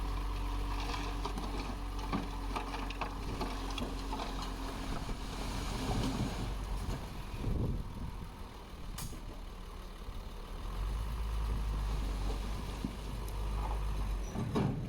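Diesel engine of heavy earthmoving machinery running steadily, with occasional knocks.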